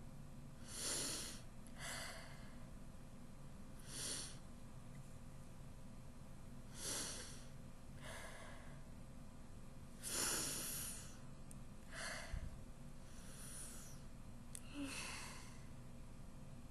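A person breathing audibly close to the microphone: about nine separate breaths or sniffs at irregular gaps of one to three seconds, over a faint steady low hum.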